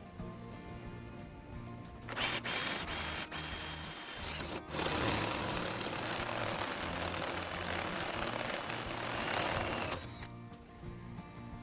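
Harsh, loud hissing noise of metal being worked, over background music. It starts about two seconds in, breaks off for an instant near the middle, and stops about two seconds before the end.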